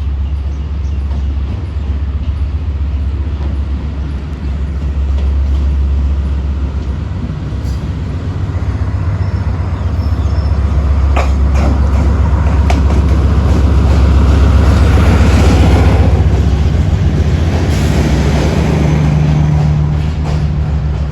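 ZCU-30 diesel locomotive and its train rolling into the station, with a steady low engine rumble. Wheels click over rail joints partway through, and the rolling noise swells to its loudest past the middle.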